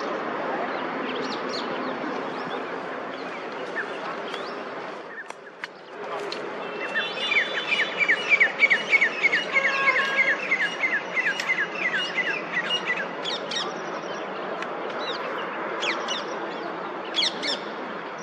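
Wild birds chirping over a steady outdoor background noise; from about seven seconds in, one bird gives a quick run of repeated falling notes, about three a second, for several seconds.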